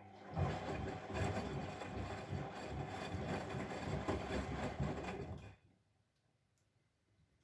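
Bosch Maxx WFL 248Y washing machine running with a rapid, rattling pulse that starts just after the beginning and stops abruptly about five and a half seconds in.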